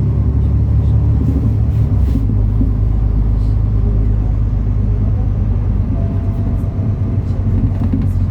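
MAN A37 Lion's City NL293 city bus with its inline-six diesel engine running, a steady low drone.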